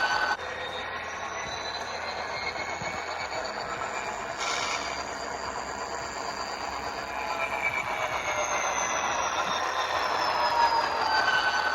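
HO-scale model diesel locomotive running slowly on the layout, its ESU sound decoder playing diesel engine sound over wheel and motor noise. Whining tones slowly slide up and down in pitch.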